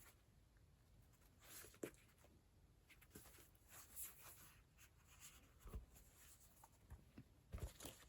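Faint rustling of paper pages being turned in a thick handmade junk journal, with a few soft knocks of the book being handled.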